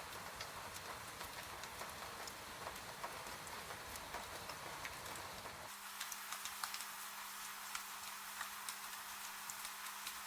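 Steady rain with scattered sharp drips. A little over halfway through, the low rumble cuts out abruptly and a faint steady hum comes in under the rain.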